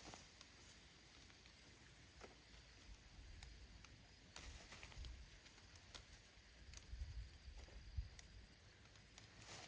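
Near silence: a faint steady high hiss with a few soft scattered ticks and low rumbles.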